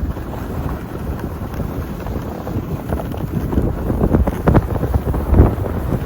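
Wind buffeting the microphone: a loud, uneven low rumble that swells in gusts, with a couple of short sharper bumps near the end.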